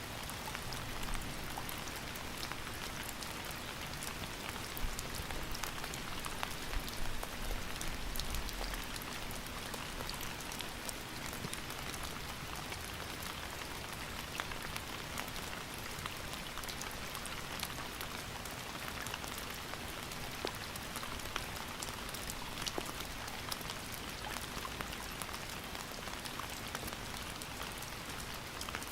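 Steady rain, with many individual drops pattering on a surface over an even hiss.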